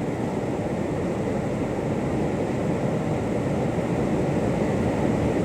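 Steady rushing noise of whitewater in a river rapid, growing slightly louder.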